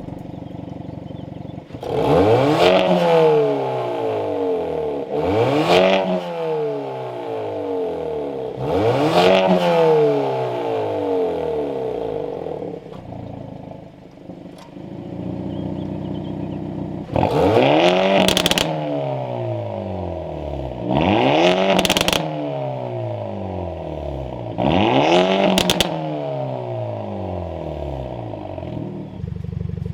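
Hyundai i30 N's 2.0-litre turbocharged four-cylinder engine, breathing through an aftermarket RPM Performance exhaust, being blipped while stationary. About six rev blips, each climbing quickly and falling back more slowly to idle, in two groups of three.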